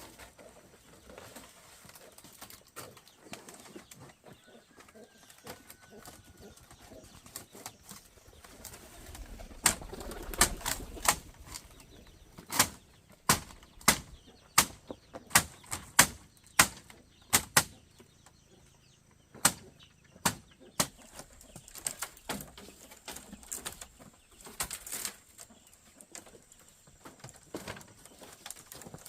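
A run of sharp knocks, about one a second, starting about ten seconds in and stopping about twenty-one seconds in, with a few more later.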